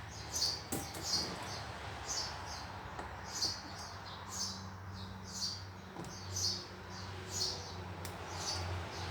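A small bird chirping repeatedly, short high chirps about once a second, over a low steady hum.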